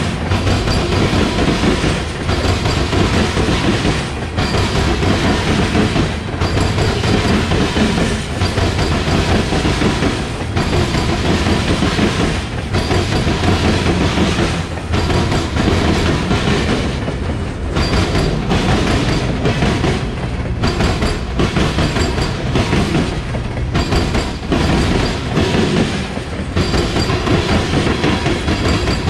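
Freight train's covered hopper and tank cars rolling past: a loud, steady rumble with the rhythmic clickety-clack of steel wheels over the rail joints.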